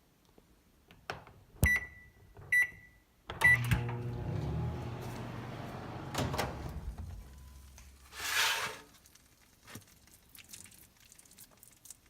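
Microwave oven keypad pressed three times, each press giving a short beep, then the oven starts running with a steady hum that fades away a few seconds later. A knock comes partway through the hum and a short hiss follows near the end.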